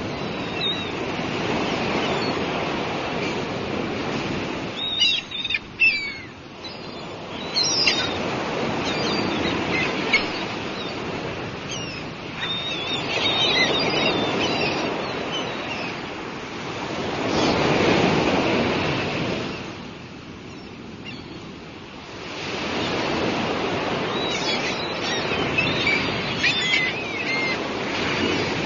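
Sea waves breaking and washing on the shore in slow swells, with gulls calling in scattered bursts over the surf, most around 5 to 8 seconds in and again near the end.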